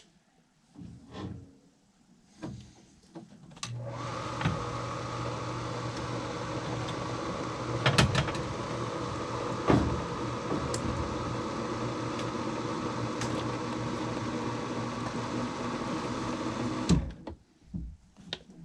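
An electric motor starts about four seconds in, runs steadily with a strong hum for some thirteen seconds and then stops suddenly, after a few knocks and handling sounds.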